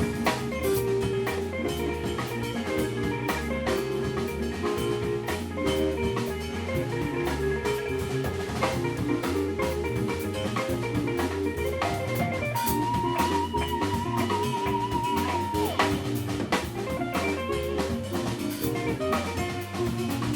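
Live jazz-fusion band music with drums, played as a steady groove; a wavering high note is held for about three seconds roughly twelve seconds in.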